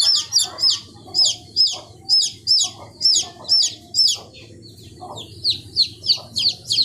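Birds giving a rapid series of high, sharp, down-slurred calls, about two to three a second, pausing briefly about four seconds in, with softer, lower calls beneath.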